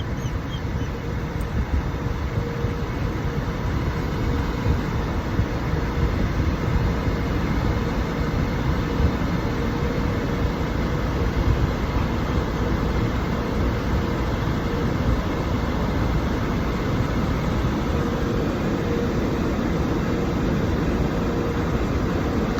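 Automatic car wash machinery running, heard from inside the car: a steady noise with a deep rumble and a faint steady hum, growing slightly louder over the first few seconds.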